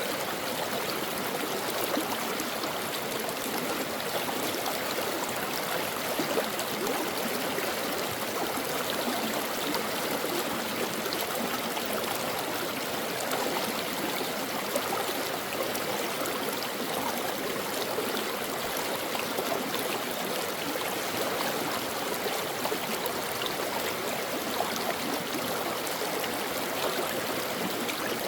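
A brook running steadily over rocks, an even rush of water with fine splashing and gurgling.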